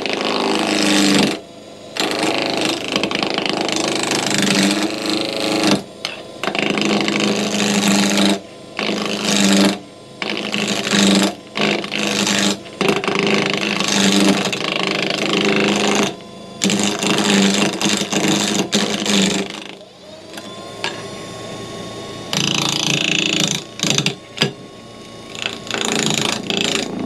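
Wood lathe spinning a wooden blank while a turning tool cuts into its middle in repeated passes of a second or two, with short breaks between them. About two-thirds through, the cutting stops briefly and a quieter rising whine comes in before the cuts resume.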